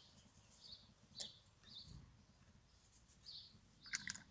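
Near silence with faint, short, high bird chirps about once a second, and two sharp clicks, one about a second in and one near the end.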